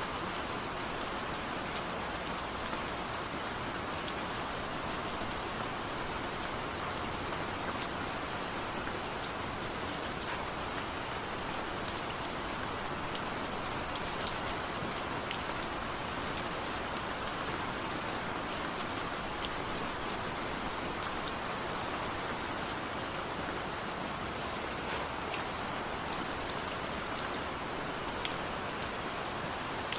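Steady rain falling, an even hiss with scattered drops ticking and pattering on surfaces.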